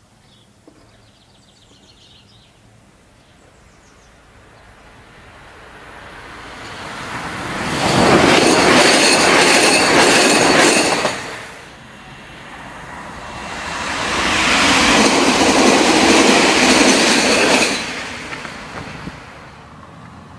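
Trains on a high-speed electrified main line passing close by at speed: the rush of wheels on rail builds, holds loud for a few seconds and falls away, then a second loud pass follows shortly after.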